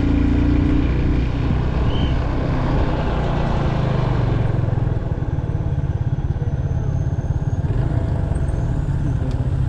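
Motorcycle running steadily on the road while being ridden, its engine and road noise dense in the low end. A higher hiss fades out about halfway through.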